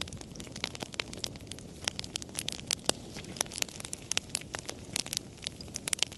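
Campfire crackling: many irregular sharp pops and snaps over a low steady rush of flame.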